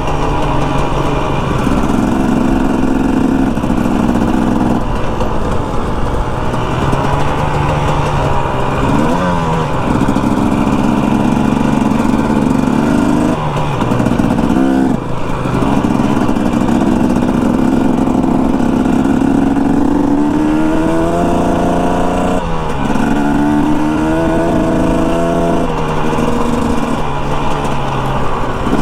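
Dirt bike engine running under way, its note climbing through the revs and dropping back at each gear change several times over.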